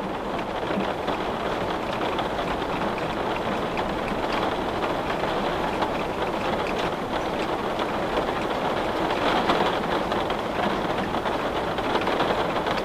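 Steady rain falling against a window: a dense, even hiss with faint scattered patters.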